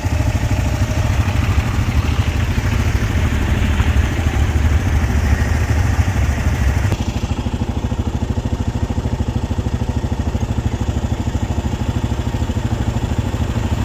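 Motorcycle engine running steadily at idle. About seven seconds in, the higher hiss drops away while the engine sound carries on.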